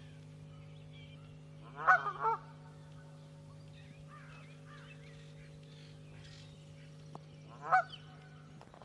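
Geese honking: a quick pair of loud honks about two seconds in and a single honk near the end, with fainter calls between them. A steady low hum runs underneath.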